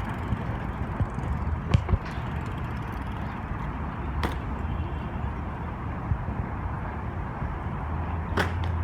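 BMX bike rolling along pavement: a steady low rumble of tyres and road noise, with three sharp clicks or knocks spread through it.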